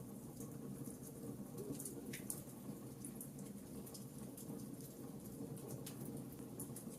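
Wood fire crackling in a fireplace: scattered small, sharp pops and ticks over a low, steady rumble of flames.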